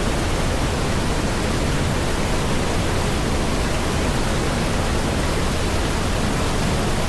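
Steady rush of a canyon stream pouring over rocks close by, a loud, even, unbroken noise.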